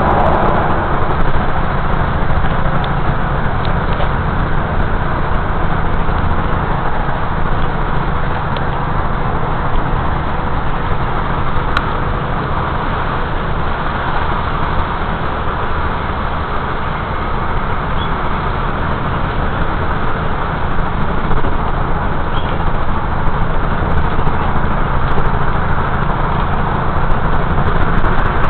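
Steady vehicle noise: a low engine hum under a constant rush of sound.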